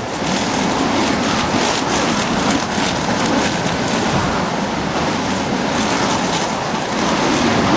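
Steady rushing noise, like wind on the microphone, with a faint wavering hum underneath.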